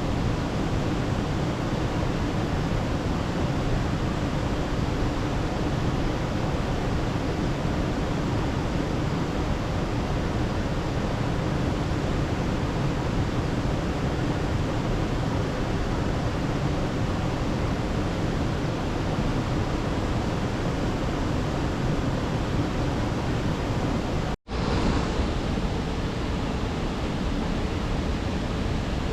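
Steady rushing noise, even and unbroken except for a brief dropout about 24 seconds in.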